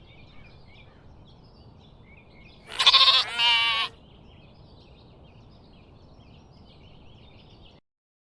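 A sheep bleating once, a quavering call about a second long, over faint chirping in the background. The sound cuts off suddenly near the end.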